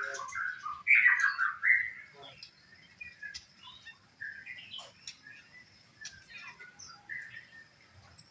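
Kept songbirds chirping and calling, with a loud burst of quick, gliding calls in the first two seconds and then scattered, quieter chirps.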